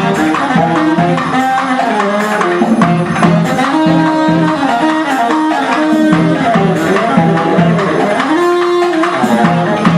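A live band playing music, with a melody over a steady rhythm of percussion strokes and some notes gliding up and down in pitch.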